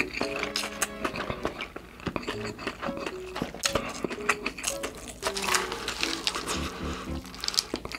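Close-miked chewing and wet mouth clicks of a person eating spicy instant noodles, with chopsticks scraping in the paper cup.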